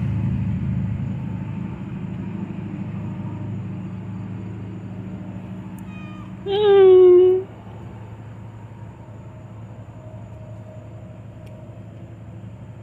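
Kitten meowing once, a single loud call lasting under a second about six and a half seconds in. A low steady hum runs underneath.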